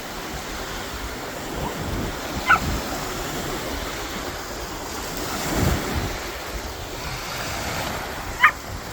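Sea water washing and wind on the microphone, swelling briefly about five and a half seconds in, with two short high chirps, one about two and a half seconds in and one near the end.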